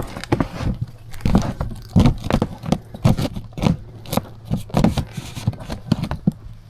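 Plastic pond liner crinkling and rustling in a quick, irregular run of crackles as it is pulled and spread over cinder blocks, with a steady low hum underneath.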